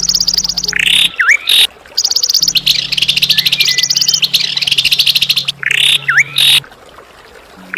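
A songbird singing harsh, rasping phrases: fast rattling trills of about a second each, broken by a few short sharp whistled notes. A low steady hum lies underneath until near the end.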